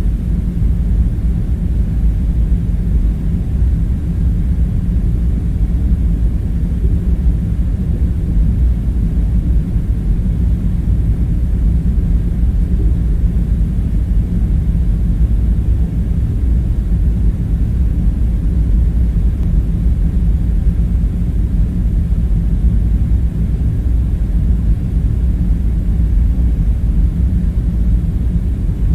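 Steady, unchanging low rumble with a faint hum on top: a background room drone of machinery or ventilation.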